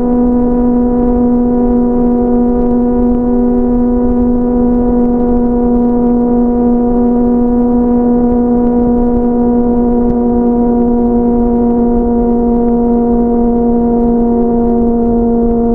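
Sport motorcycle's inline-four engine running at steady high revs at freeway speed, a steady, even-pitched tone over low wind rush.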